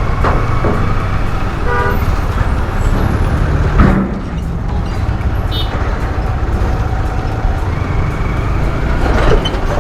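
Road traffic with a heavy wind rumble on the microphone; a vehicle horn toots briefly about two seconds in, and a loud knock comes just before four seconds.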